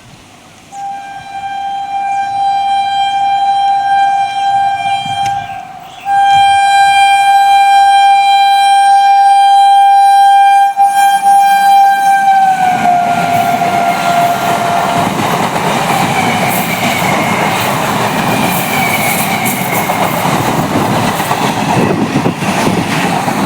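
Indian Railways train sounding its horn in two long single-pitched blasts, the second one dropping in pitch as the train passes. The train then goes by with a loud, steady rumble of wheels on the track.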